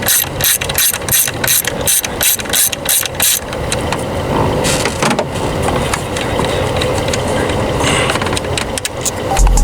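Hand ratchet wrench clicking in a steady rhythm, about three strokes a second, working an ignition coil pack's hold-down bolt. The clicking stops a little over three seconds in, leaving softer, irregular noise.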